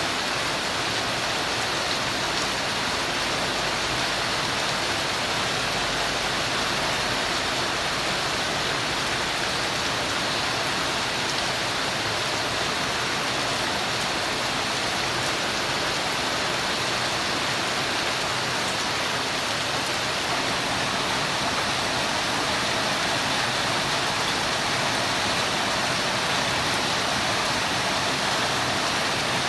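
Steady rainfall, an even hiss of many drops with no distinct single drips standing out.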